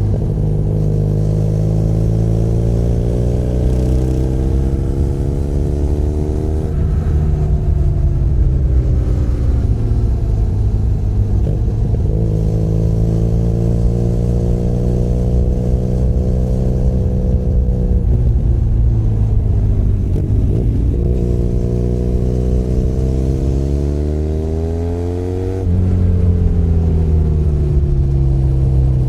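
Benelli Leoncino 500 Trail's parallel-twin engine pulling under load, its pitch rising over several seconds in each gear and then dropping abruptly at each of about four upshifts, with a short throttle lift before the shift near the end.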